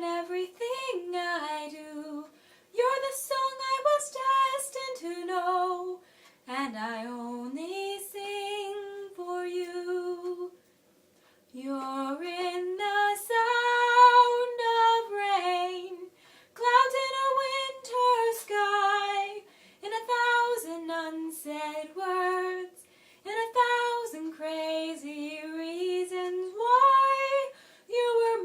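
A woman singing a slow ballad solo and unaccompanied, phrase by phrase with short silent breaths between lines, the longest pause about ten seconds in.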